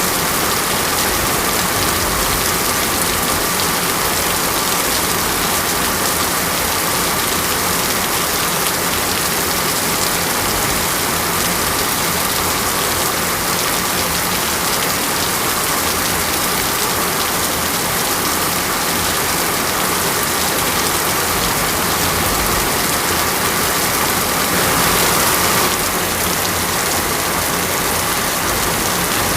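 Steady heavy rain falling on a hard surface, a dense even hiss of many drop strikes, swelling slightly for a moment near the end.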